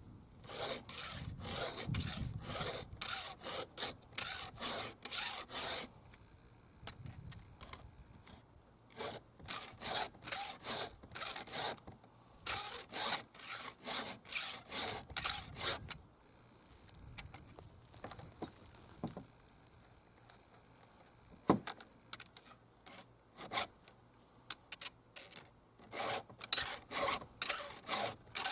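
Stihl 2-in-1 Easy File sharpener's files rasping on a 3/8 Picco chainsaw chain, sharpening a cutter tooth and filing down its depth gauge in the same stroke. Quick strokes come in runs of a few seconds, with short pauses between as it moves from tooth to tooth, and a single sharp click about two-thirds of the way through.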